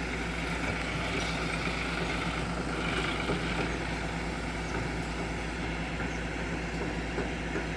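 Diesel engine of heavy machinery running steadily, an even hum with no clear changes in speed.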